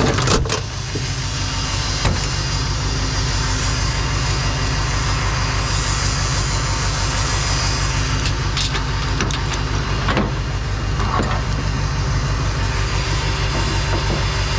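Truck engine idling steadily, with a few light metallic clicks and clanks, one about two seconds in and others around eight and ten seconds in.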